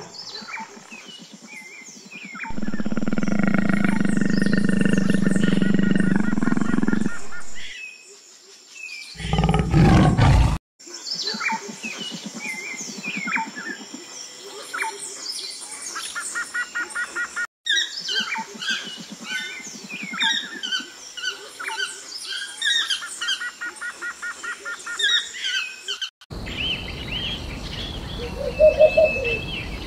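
A tiger growling for about five seconds, then another short loud growl. These are followed by many birds chirping in the background, and a short owl call near the end.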